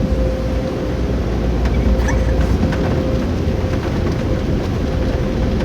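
Touchless car wash running: high-pressure water spray rushing and drumming on the car as a heavy, steady noise, with a constant machine hum under it.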